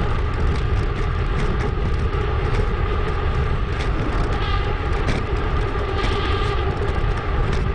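Steady wind and tyre rumble from a mountain bike in motion, with scattered clicks and rattles, played sped up.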